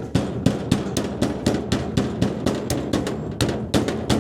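A hammer tapping rapidly and lightly, about four strikes a second, on cardboard pressed against the truck's sheet-metal body. This is hammering a rubbing of the panel's edges into the cardboard to make a patch template.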